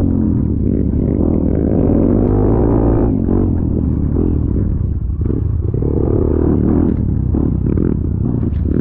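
Motor vehicle engine running steadily at a constant pitch.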